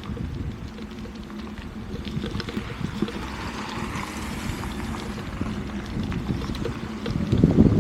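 Strong wind buffeting the microphone: an uneven low rumble with a louder gust just before the end.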